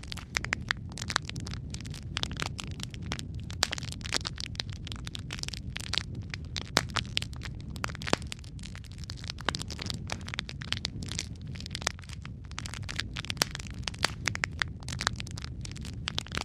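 Wood fire crackling in a fireplace: a steady low rumble under many irregular sharp pops and snaps.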